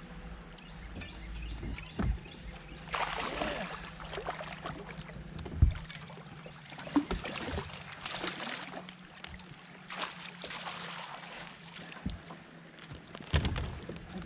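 Water slapping and splashing against the hull of a fishing boat drifting in river current, in uneven waves, with a few sharp knocks on the boat.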